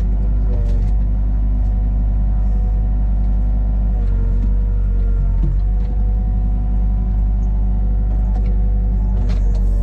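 A heavy engine running steadily at a constant speed, its pitch shifting slightly a few times as the load changes.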